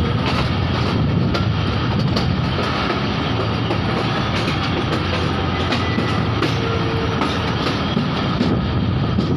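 Train running on the rails: a steady rumble of wheels and running gear, with wheels clicking over rail joints.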